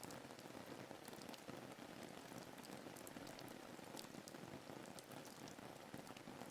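Steady, faint rain ambience: rain falling on a surface, with a soft even hiss and scattered drop ticks.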